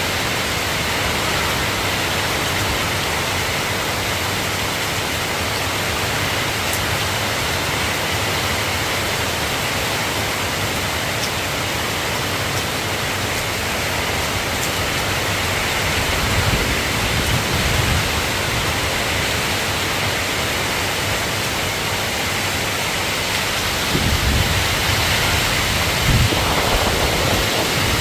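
Steady rain falling, an even hiss with no let-up. Low rumbles rise beneath it a little past halfway and again near the end.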